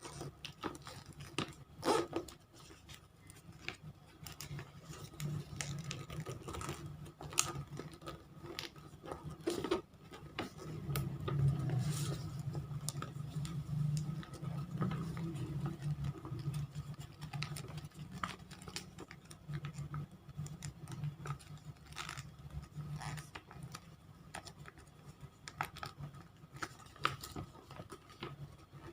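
Origami paper being folded and creased by hand: irregular crinkling, rustling and sharp little crackles as the sheet is bent and pressed flat. A low hum sits underneath, strongest through the middle.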